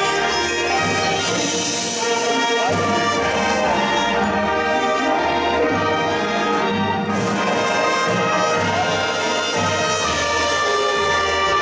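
Marching band's brass section playing full held chords, with a low pulsing bass line underneath.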